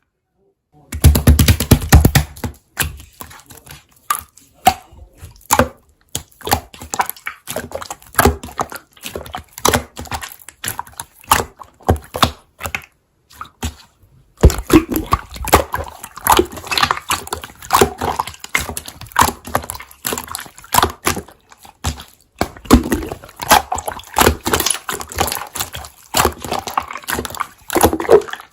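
Hands squishing and pressing marbled slime, giving dense, irregular wet clicks and pops. It starts about a second in and pauses briefly a little before halfway.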